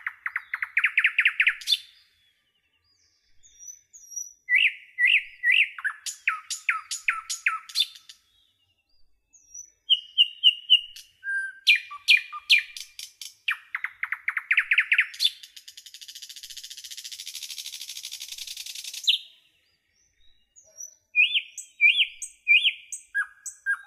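Birds singing and calling: short runs of quick, high chirping notes and trills come and go with silent gaps between them. About sixteen seconds in there is a harsh buzzing stretch that lasts about three seconds.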